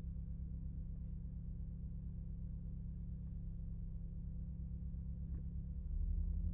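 Renault Megane RS Trophy's turbocharged four-cylinder engine running steadily at low revs with a low hum. About six seconds in its note shifts and gets louder as it comes onto the throttle.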